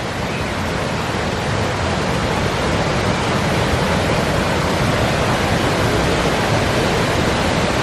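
Waterfall rushing, a steady, dense roar of falling water heard up close.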